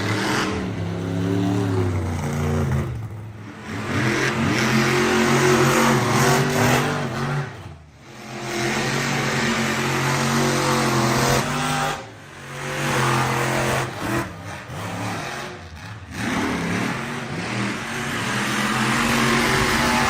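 Monster truck engine revving hard and repeatedly, its pitch climbing and falling, with brief lifts off the throttle about three, eight and twelve seconds in.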